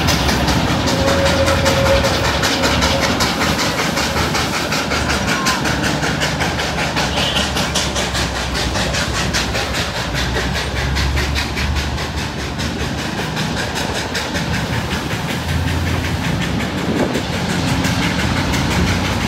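Darjeeling Himalayan Railway narrow-gauge toy train running, its wheels clattering on the rails in a fast, even rhythm over a steady low rumble.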